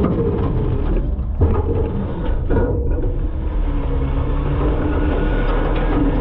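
Front-load garbage truck running with a steady low rumble, heard from inside its hopper, with a sharp thump about a second and a half in and a smaller knock about a second later.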